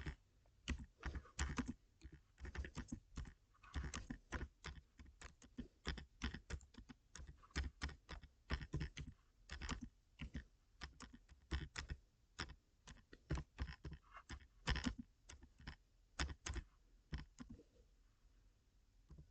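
Typing: quick, irregular key taps and clicks, several a second, thinning out near the end.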